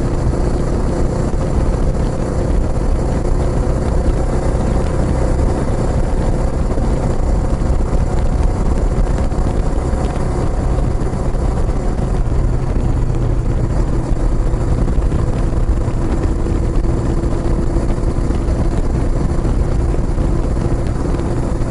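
Kawasaki Estrella's single-cylinder engine running steadily through an aftermarket Yamato muffler.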